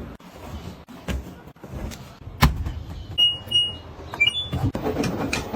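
Household handling sounds: a few sharp clicks and knocks, then two short high beeps like an appliance's electronic beep, followed by rustling near the end.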